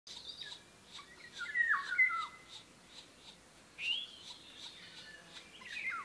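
Birds calling: a quick run of short, downward-sliding whistled notes about two seconds in and a single rising call about four seconds in, over faint, evenly repeated high notes.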